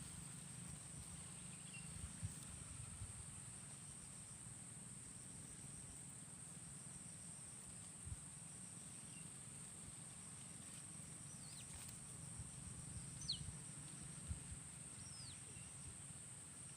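Steady high-pitched insect drone, like crickets, against faint low rumble. A few faint short descending bird chirps come about two-thirds of the way through.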